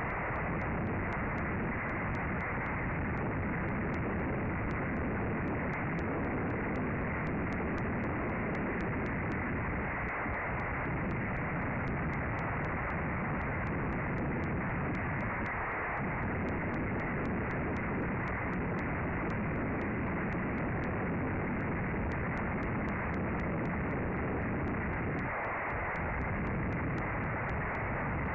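Strong wind blowing over a nest camera's microphone: a steady rushing noise with a few brief lulls.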